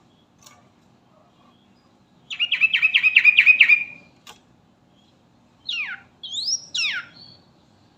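Yellow-vented bulbul (trucukan) singing: a quick chattering run of about eight notes, then, after a short pause, three sweeping whistled notes, mostly falling in pitch.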